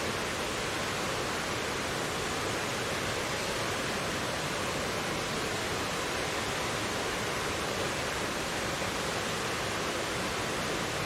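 Mountain valley stream rushing steadily over rocks, an even continuous hiss of water with no change.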